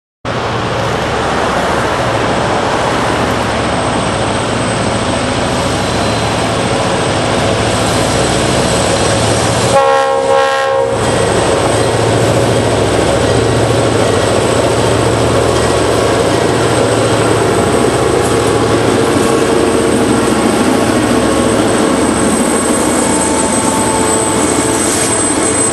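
Diesel locomotives hauling a passenger train run with steady engine and rail noise, and a short horn blast comes about ten seconds in. Thin high-pitched wheel squeal is heard near the end.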